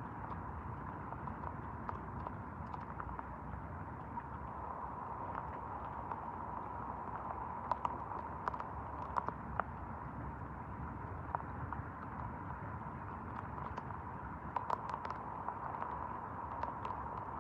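Steady rain with scattered drops ticking irregularly on nearby surfaces, over a faint steady hum.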